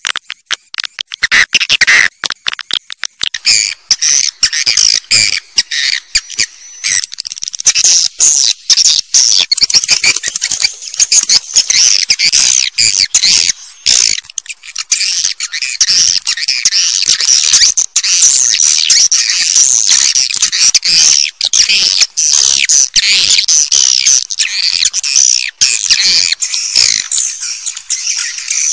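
Swiftlets chirping: a dense chatter of rapid high chirps from many birds, sparser for the first few seconds and then unbroken. It is the swiftlet call recording played to lure swiftlets into nesting houses.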